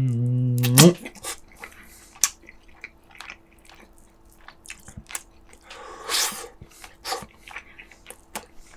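A man's drawn-out "mmm" of enjoyment, held on one pitch and rising at the end, followed by eating noises: lip smacks and small clicks of chewing, with a short breathy rush about six seconds in.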